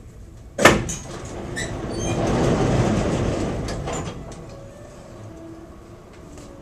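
Airport subway train: a sharp, loud clunk about half a second in, then a rushing rumble that swells and fades over about two seconds.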